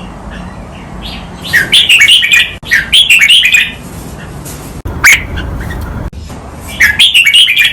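Red-whiskered bulbul singing: two bright warbling phrases back to back about a second and a half in, one sharp note around the middle, and another phrase near the end, over a steady low hum.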